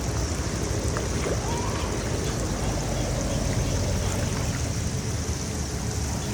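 Steady rush of flowing water, with a low rumble underneath.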